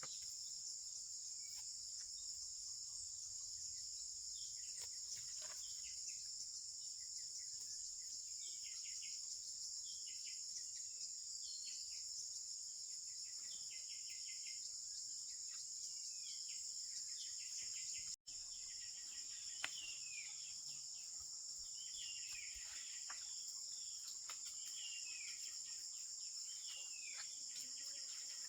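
Steady high-pitched chorus of crickets or other night insects, with short falling chirps and trills from another animal repeating every second or two.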